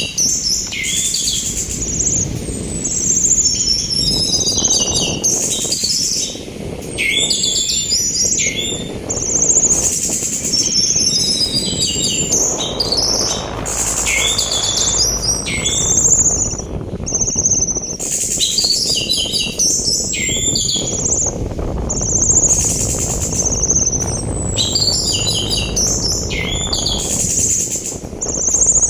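Orange-headed thrush singing in repeated phrases of high whistles, quick chattering notes and falling slurs, over a steady rush of sea wind.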